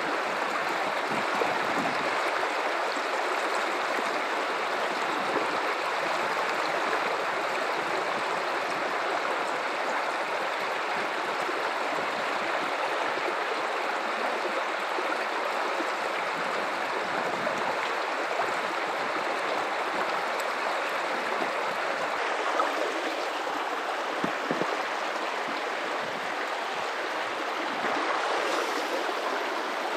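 River water running over rocks in a steady rush, with small gurgles and splashes through it.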